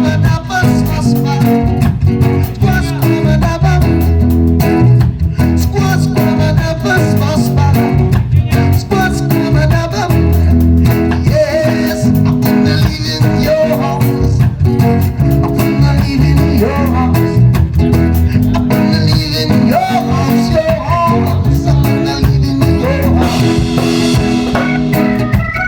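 A band playing an instrumental stretch with drums, bass and guitar over a steady beat.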